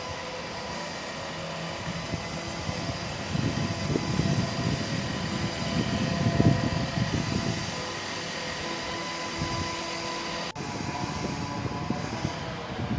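Passing vehicle noise: a steady mechanical whine with a low rumble that swells and fades in the middle.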